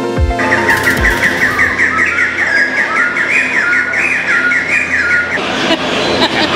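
Perched birds calling: a fast, steady run of short rising notes, several a second, that stops about five seconds in. Background music ends just as the calls begin.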